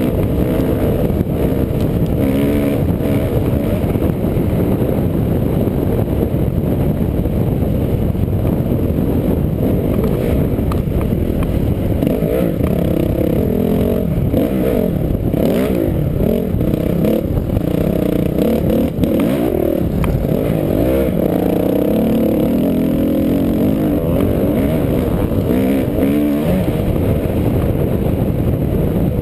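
Off-road vehicle engine running under way, its pitch rising and falling with the throttle throughout.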